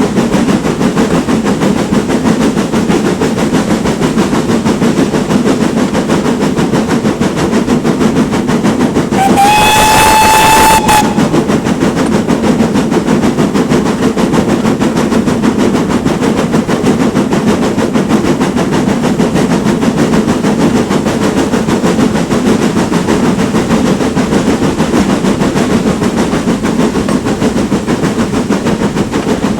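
Great Western Manor-class steam locomotive working a train, a steady, loud running noise of the engine and train on the rails, with one short steam whistle blast about nine seconds in that lasts under two seconds.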